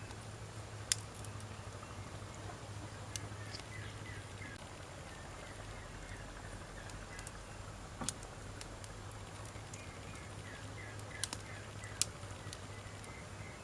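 Wood campfire burning with a low steady crackle and sharp pops of the burning wood every few seconds, the loudest about a second in and near the end.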